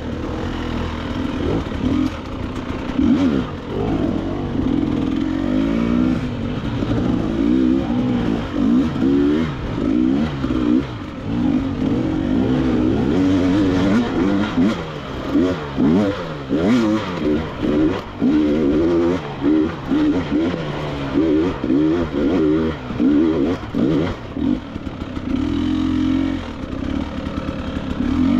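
KTM 300 XCW two-stroke dirt bike engine revving up and down in quick, uneven bursts as the throttle is blipped and chopped through a rocky technical section.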